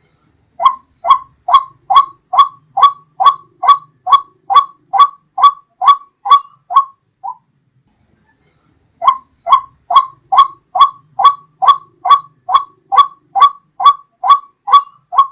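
White-breasted waterhen (ruak-ruak) call played as a hunting lure: a loud run of short, evenly repeated calls, about two and a half a second. It breaks off for about two seconds in the middle, then the series starts again.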